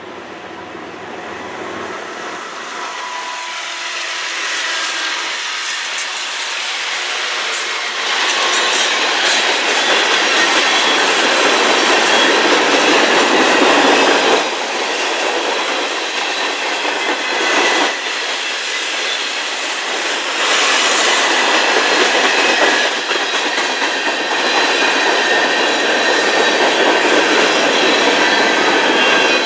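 CN freight train passing close by: the diesel locomotives come up and go by, getting louder over the first several seconds, then hopper and tank cars roll past with wheels clacking over the rail joints and a faint steady wheel squeal.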